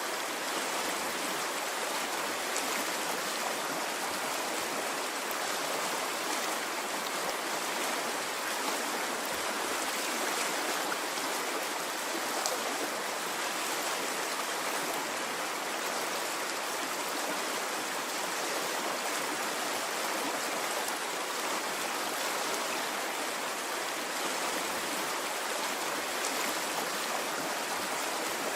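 A stream of running water flowing steadily, an even rushing and splashing noise with no pauses or surges.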